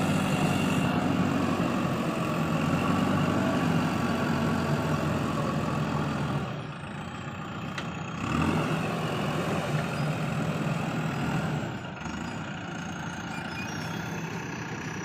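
Heavy diesel engine running with a steady, even beat. It drops in level about six and a half seconds in, surges briefly around eight seconds, and eases again near twelve seconds.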